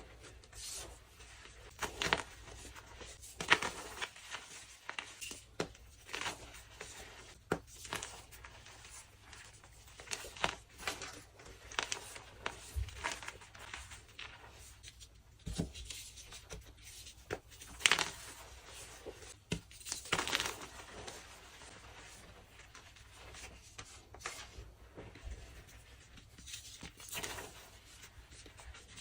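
Dyed blocks of BSN gym chalk being crushed and crumbled, an irregular run of dry crunches and crackles with a few louder cracks now and then.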